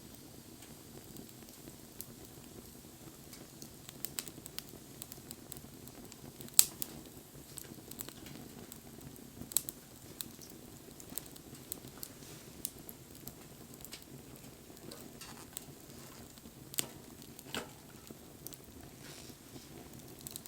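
Wood fire crackling, with irregular sharp pops, the loudest about six and a half seconds in, over a steady low rumble.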